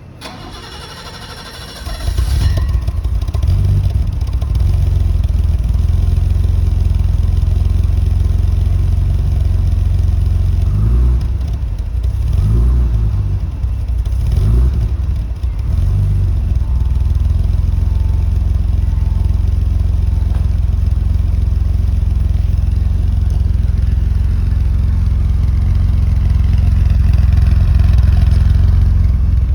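1985 BMW 535i's 3.4-litre straight-six being started from cold. After a couple of seconds of cranking it catches about two seconds in and settles into a steady idle, with the revs rising and falling a few times around the middle.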